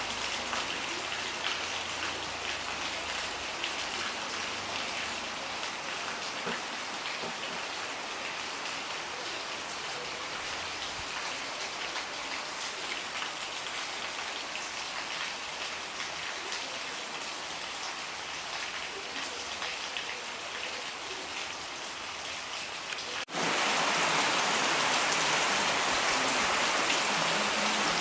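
Steady rain falling and pattering on surfaces. About 23 seconds in it cuts abruptly to a louder, denser downpour.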